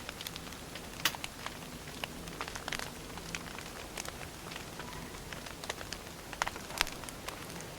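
Wood fire crackling: irregular sharp pops and snaps over a soft steady hiss of burning firewood.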